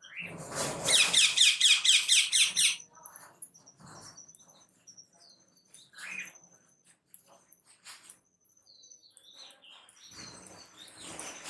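Pet cage birds calling: a loud run of quick, harsh chirps for the first three seconds, then softer scattered chirps and high twittering.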